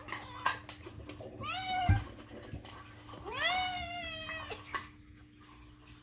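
Domestic cat meowing for food, two drawn-out meows that rise in pitch, the second, about a second long, longer than the first. A sharp knock about two seconds in, with a few lighter clicks.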